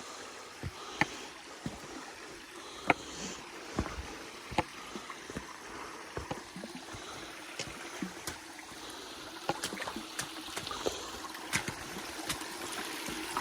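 Shallow creek water running and trickling over rock bedrock, with irregular sharp splashes and clicks from boots stepping through the water.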